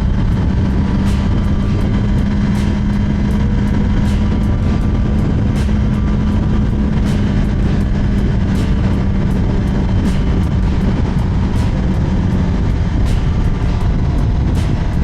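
Kawasaki ZX10R's inline-four engine running at a steady cruise under a loud rush of wind on the helmet camera. The engine holds one even note until it eases slightly near the end.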